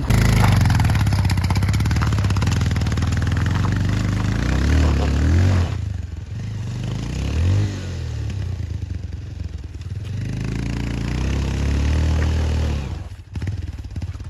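Motorcycle engine revving up and down several times, with the bike rattling, then easing off sharply near the end.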